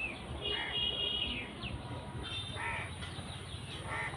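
Birds calling: short harsh calls every second or two, with thinner chirps and quick sliding notes between them, over a low steady rumble.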